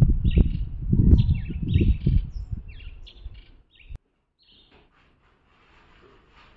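Birds chirping in short, repeated calls that slide downward, over a loud, gusting low rumble of wind on the microphone. Both cut off abruptly about four seconds in, leaving only faint room sound.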